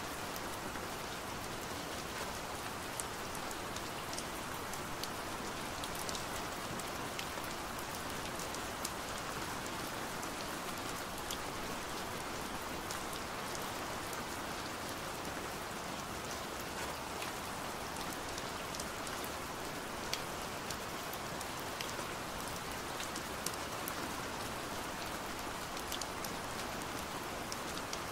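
Steady rain falling on a window, a continuous patter with scattered sharper taps of single drops.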